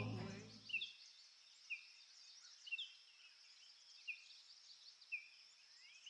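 Background music fades out within the first second, leaving faint outdoor nature ambience: a bird's short falling chirp repeated about once a second over a faint high chorus of distant birdsong.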